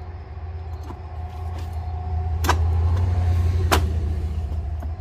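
Jeep Wrangler's engine idling with a steady low rumble, and two sharp clicks about a second apart as the grille is worked into place.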